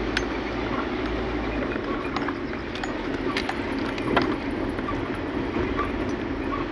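Steady noise of a vehicle on the move, with scattered light rattles and clicks throughout.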